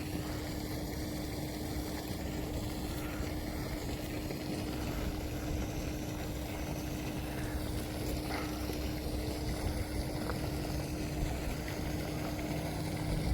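Steady rush and splash of water from a pond fountain, with a steady low hum underneath.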